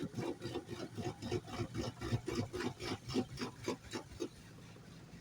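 Rapid rhythmic scraping strokes, about four a second, that stop about four seconds in.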